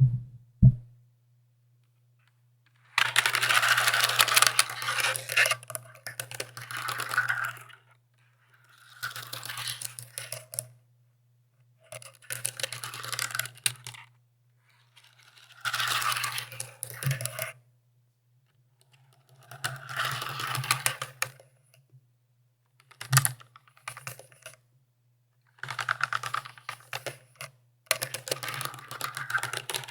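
Mechanical keyboard typing: bursts of rapid key clicks, each a few seconds long, broken by short silent pauses.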